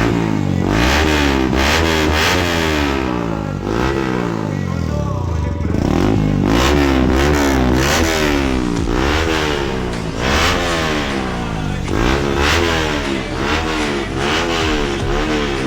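Yamaha R15 single-cylinder motorcycle engine, fitted with an aftermarket exhaust, revved in repeated throttle blips, its pitch rising and falling back about once a second.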